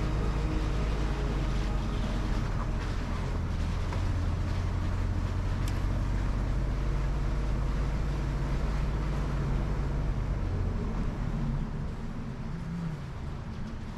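Ford Bronco driving, a steady low engine and road drone that drops off about eleven seconds in.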